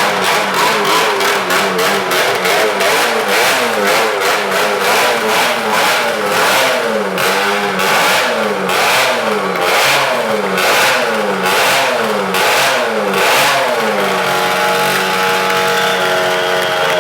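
Motorcycle engine running hard as it circles a wall of death, its pitch sweeping up and down a little faster than once a second as the bike passes round and round. Near the end the pitch holds steadier.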